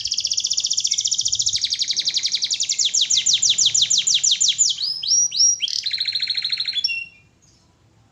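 Domestic canary singing a long song of fast rolling trills, each phrase a rapid run of repeated notes, with a few falling sweeps between them. The song stops abruptly about seven seconds in.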